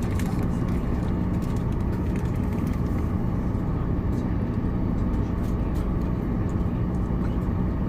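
Steady low drone of an airliner cabin in flight, even and unbroken, with a few faint clicks.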